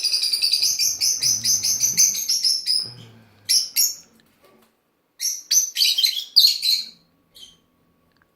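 Peach-faced lovebirds chirping in fast, high-pitched runs of notes: a steady run over the first three seconds, a short burst, then a busy chatter about five to seven seconds in, tailing off into a few faint chirps.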